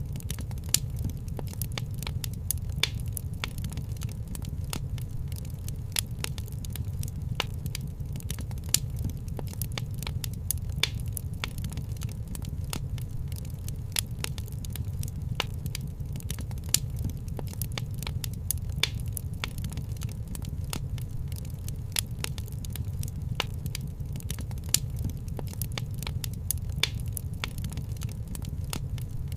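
Fireplace wood fire crackling: dense small crackles with sharper pops about every two seconds, over a steady low rumble.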